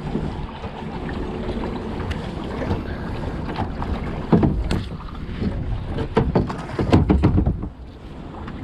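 Wind buffeting the microphone on a kayak on open water, with a few irregular knocks and splashes against the hull.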